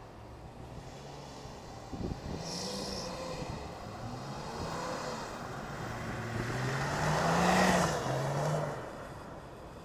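BMW car engines revving on and off the throttle while drifting on snow, the pitch rising and falling. About seven seconds in, one car slides past close by, loudest with a hiss of spinning tyres, then fades away.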